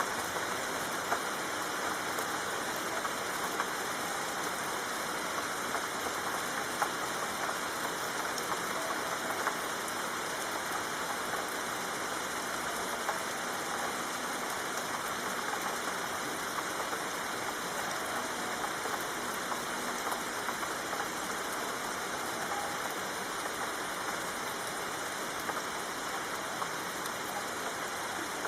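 Steady rain falling: an even, dense hiss of drops with scattered sharper drop ticks.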